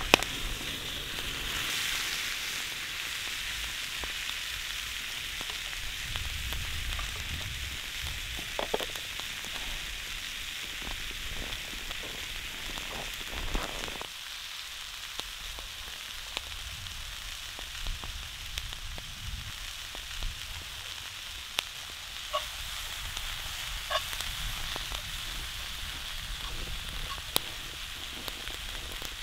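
Food frying in hot oil in a pan: a steady sizzle with occasional sharp pops and crackles.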